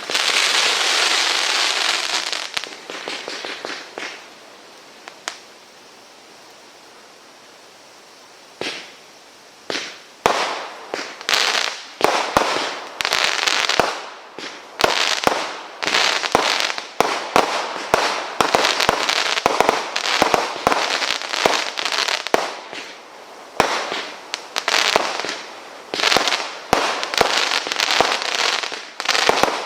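Consumer firework barrage being fired. It opens with a loud hissing, crackling burst that fades over a few seconds. After a lull, from about nine seconds in, comes a fast run of sharp bangs, each trailing off quickly, with a short pause around two-thirds of the way through.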